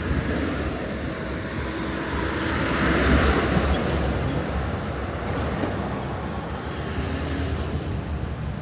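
Road traffic: a motor vehicle passes close by, its engine and tyre noise swelling to a peak about three seconds in and then fading into steady traffic rumble.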